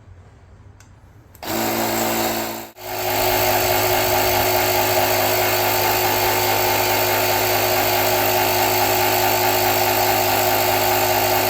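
Portable electric tyre inflator running as it pumps up a motorcycle tyre. It starts about a second and a half in, stops for a moment, then restarts and runs with a steady motor hum.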